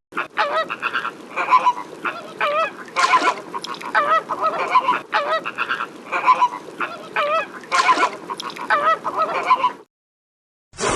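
Waterfowl honking in a long series of calls, about two a second, with a wavering pitch; the calls stop near the end.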